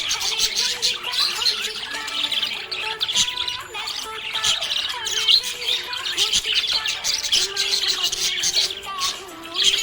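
Budgerigars chirping and warbling in a continuous, rapid chatter mixed with squawks.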